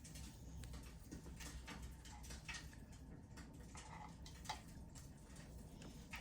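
Wood fire crackling faintly, with irregular small snaps and pops from the burning logs over a low steady hum.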